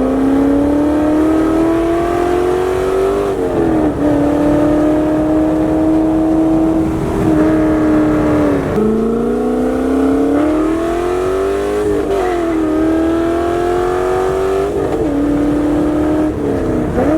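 Loud C5 Corvette V8 exhaust under acceleration, the pitch climbing with revs and dropping sharply at each of several gear changes, with a steadier stretch of cruising in between.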